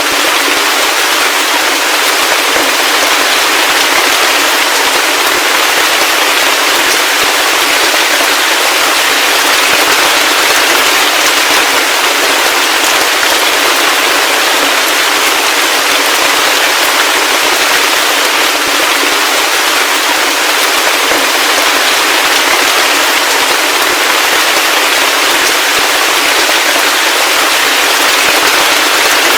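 Heavy rain falling steadily: a dense, even hiss of drops, with nothing in the low end.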